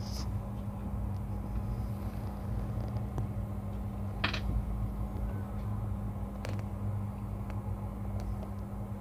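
Rajdhani Express LHB coach running, heard from inside the closed AC 2-tier compartment: a steady low rumble under a constant hum, with a brief hiss about four seconds in and a few light clicks.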